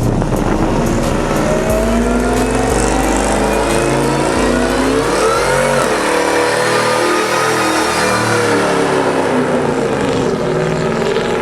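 Pickup truck engine revving hard and loud, its pitch climbing slowly to a peak about halfway through and then falling back.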